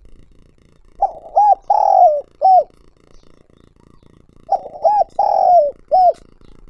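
Spotted dove cooing: two song phrases about three and a half seconds apart, each of four coos with a long note that falls at its end in the middle.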